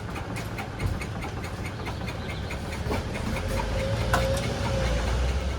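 Car engine idling, with a regular light ticking about three times a second; the engine grows louder in the second half.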